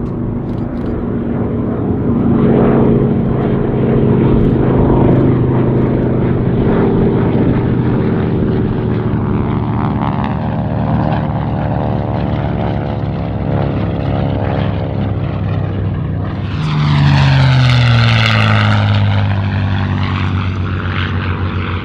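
Propeller-driven piston-engine warbirds flying past with a steady engine drone. About seventeen seconds in, one passes close, growing louder, and its pitch drops as it goes by.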